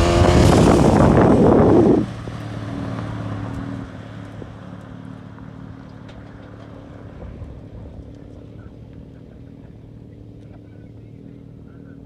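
Twin-engine Vauxhall Corsa's engines at full throttle for about two seconds, then the throttle is suddenly lifted and they settle to a steady, much quieter running note, dropping lower again about four seconds in.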